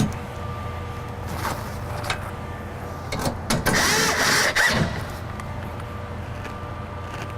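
Car door parts being handled and fitted during reassembly: a few knocks and clicks, then about a second of scraping, rustling noise near the middle, over a steady faint hum.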